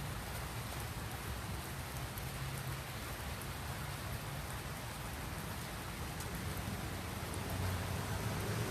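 Steady rain falling, an even hiss with a low rumble underneath that swells near the end.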